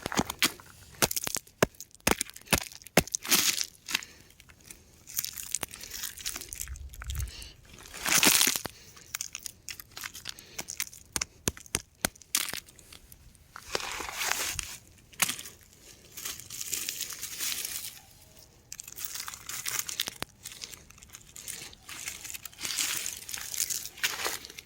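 Rocks crumbling and crunching: an irregular run of sharp crackles and clicks, broken by longer stretches of crackling, the strongest about eight seconds in.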